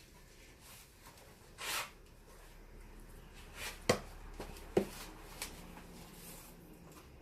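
Handling noises: a brief rustle, then two sharp clicks about a second apart and a fainter click after.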